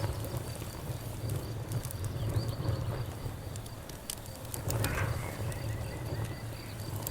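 Campfire crackling, with scattered sharp pops over a steady low rumble, and an insect, likely a cricket, chirping in an even high-pitched pulse throughout.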